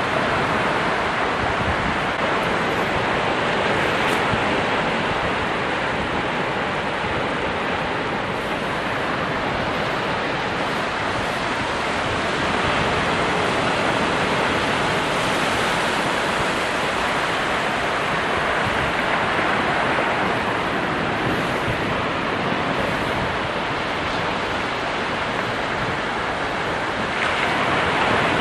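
Ocean surf: a continuous wash of breaking waves that swells and eases gently, with no separate crashes standing out.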